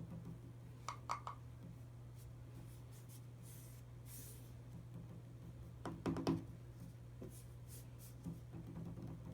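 Faint scratching and tapping, a few clicks about a second in and a louder cluster about six seconds in, over a steady low hum.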